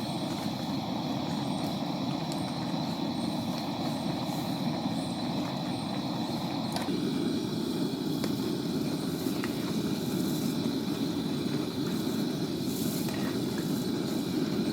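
Heavy rain and wind making a steady, dense rushing noise. About halfway through it turns deeper and heavier.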